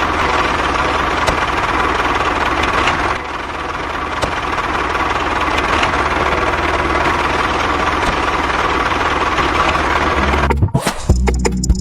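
A small engine or motor running steadily for about ten seconds, dipping briefly in level around three seconds in, then cutting off shortly before the end.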